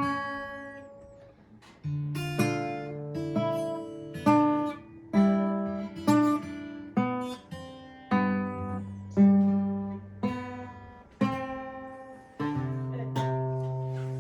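Acoustic guitar being practised slowly: single notes and chords plucked one at a time, about one a second, each left to ring and fade.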